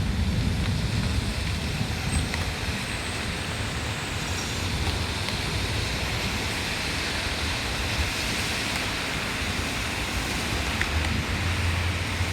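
Heavy downpour: a steady, even hiss of rain with a low rumble underneath, swelling a little in the middle.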